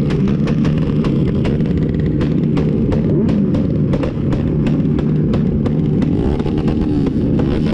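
Motorcycle engines running and revving together, with a series of sharp pops about three to four times a second.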